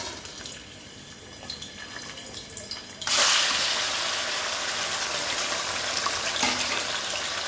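Raw chicken pieces tipped from a plate into hot oil in a wok, setting off a loud, steady sizzle that starts suddenly about three seconds in. Before that, only a faint sizzle and light crackle from a single piece already frying in the oil.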